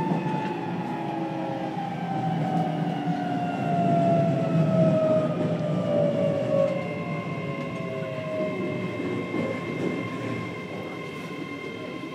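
JR Kyushu 303 series electric train's Toyo IGBT VVVF inverter whining inside the motor car as the train slows under braking, with wheels and running gear rumbling underneath. The whine falls steadily in pitch, settles into a steady higher tone a little past halfway, and the overall noise eases toward the end.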